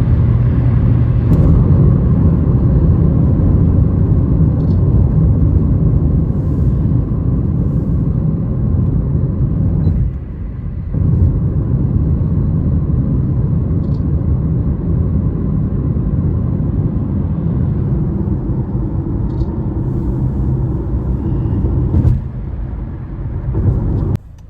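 Steady low rumble of a car on the move, dipping briefly about ten seconds in, easing near the end and then dropping off sharply just before it finishes.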